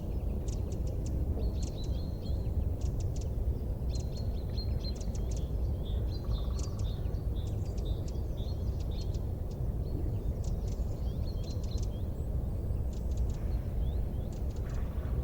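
Small birds chirping and trilling in quick, repeated short notes over a steady low rumble.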